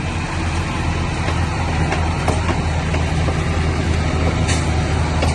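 Crawler bulldozer's diesel engine running steadily, a little louder after the first second, with scattered clicks and clanks from the machine and stone; one sharper clank comes near the end.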